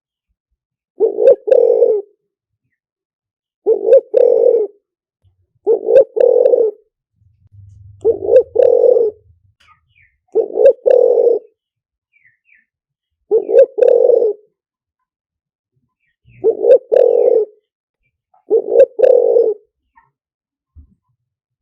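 Spotted dove cooing, eight two-part coos in a steady series about every two and a half seconds: a decoy call recording of the kind played to lure spotted doves into a trap.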